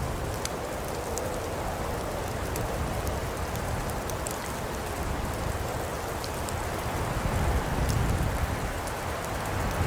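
Birchwood fire burning in a fireplace: a steady hiss and low rumble with scattered sharp crackles and pops.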